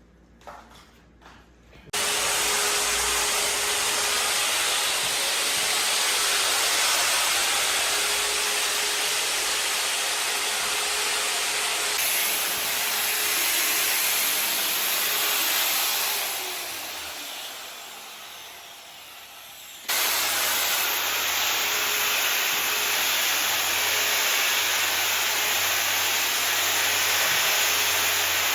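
A handheld power tool working marble, running with a loud, steady rushing noise. About halfway through it winds down with a falling pitch, then starts up again suddenly.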